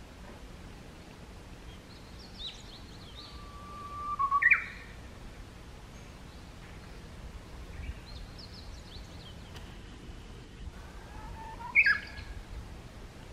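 A songbird singing two similar phrases several seconds apart. Each is a long held whistle that ends in a sharp upward flourish, with fainter high chirps before it.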